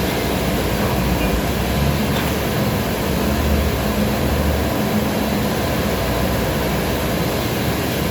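Steady mechanical running noise: a low rumble that swells and fades under an even hiss.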